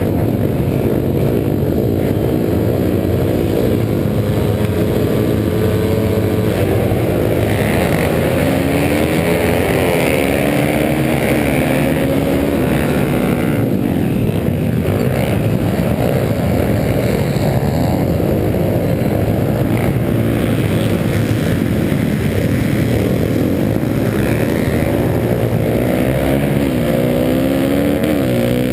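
Pit bike engines racing on a motocross track, revving up and dropping back over and over as the riders work the throttle through the course.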